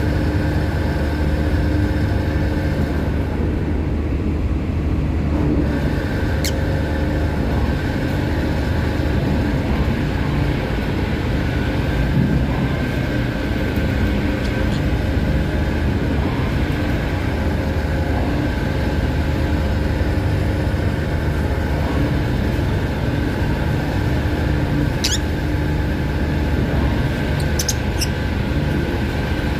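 A ferry's engine runs with a steady low hum and a few fixed tones. Over it come a few short, high-pitched lovebird chirps, one about six seconds in and several close together near the end.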